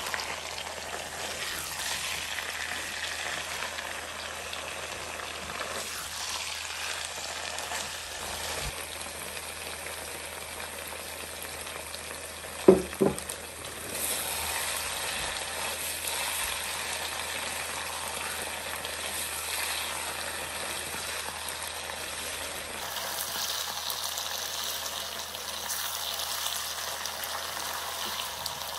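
Chicken and peppers sizzling in a frying pan, stirred with a wooden spatula. About halfway through come two sharp knocks, the loudest sounds here, and the sizzle is a little louder after them.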